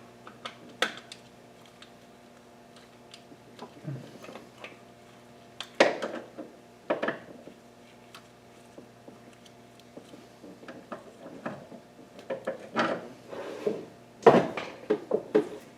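Hand tools and bolts clinking and knocking against metal, in scattered single clicks and short quick clusters, mostly in the last few seconds; a faint steady hum runs underneath.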